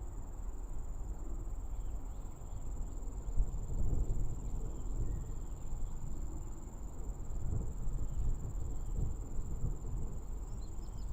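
Insects trilling steadily at a high pitch, over a low uneven rumble that swells about four seconds in and again near eight seconds.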